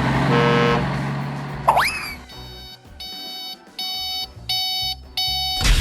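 Electronic beeping effects: a quick rising whistle, then five short beeps about two-thirds of a second apart, getting louder, followed by a sharp knock near the end.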